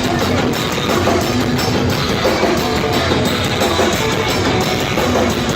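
Punk rock band playing live and loud, with electric guitars, bass and drum kit.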